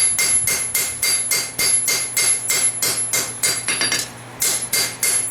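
Hand hammer striking a farrier rasp being forged into a knife blade on an anvil, about four blows a second, each blow leaving a high ringing. A short break of about half a second comes about four seconds in, then the blows resume.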